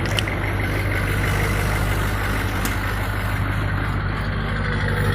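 LB7 Duramax 6.6-litre V8 turbodiesel in a 2002 GMC Sierra 2500 HD idling steadily through a Magnaflow muffler and dual exhaust tips, warming up after a cold start.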